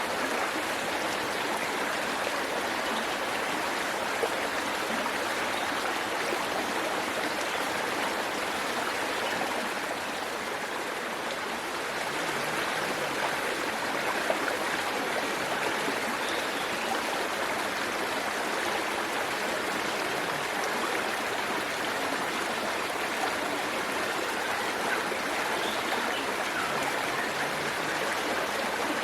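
Waterfall water pouring in a steady, even rush, with a slight dip in level about ten seconds in.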